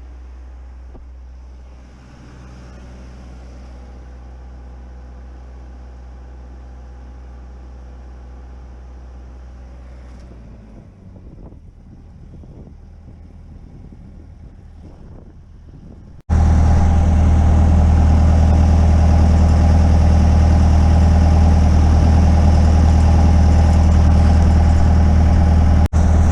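A steady engine drone, low and fairly quiet at first with a few faint knocks, then abruptly much louder about sixteen seconds in, with a steady hiss over it. This fits an engine-driven welding machine working while a stick-weld fill pass is run.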